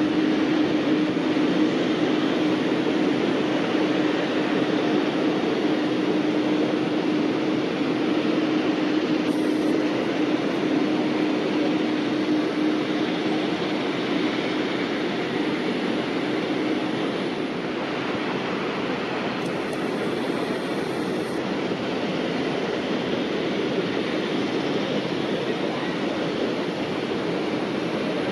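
Jet airliner engines running, a steady loud rushing noise with a low hum that fades out about two-thirds of the way through.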